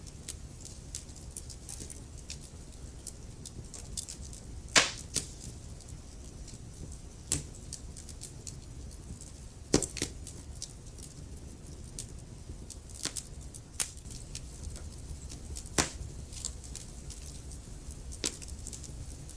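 Wood fire crackling in a fireplace: a low steady rumble of burning logs with scattered small snaps and a few louder pops, the loudest about five, ten and sixteen seconds in.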